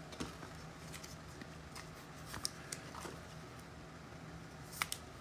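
Trading cards being handled and sorted: faint scattered clicks and light rustles, with a sharper double click near the end, over a steady low electrical hum.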